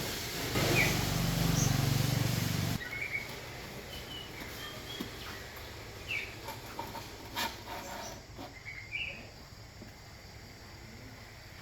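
Small birds chirping in short, scattered calls over a quiet background. A louder low rumble in the first few seconds cuts off abruptly, and a few sharp clicks come around the middle.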